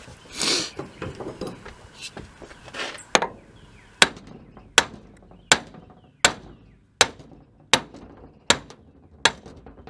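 A steady run of hammer blows on metal, about one every three-quarters of a second, each ringing briefly, after a short rush of noise near the start. The blows are driving a bearing rusted fast onto the shaft of a Blackmer TDX2D vane pump, and it is starting to come free.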